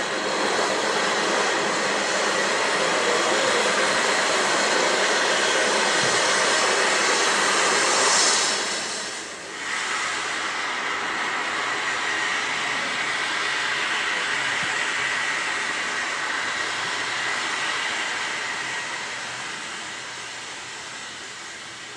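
A train in motion: a steady, loud rolling noise of wheels on rail. It dips briefly about nine seconds in and fades gradually near the end.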